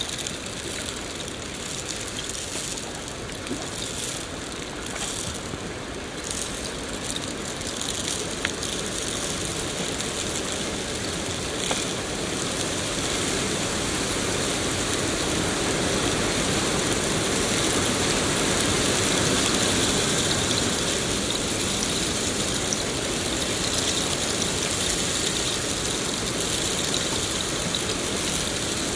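Steady rainfall, an even hiss of falling rain that slowly grows louder toward the middle and then holds.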